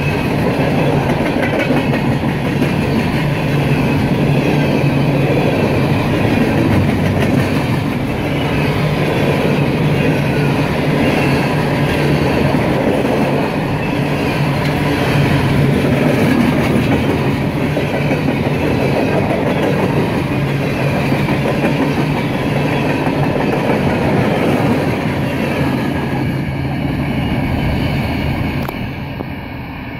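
Empty coal hopper cars rolling past close by, their steel wheels rumbling and clacking on the rails in a loud, steady run. Near the end the last car passes and the sound falls away.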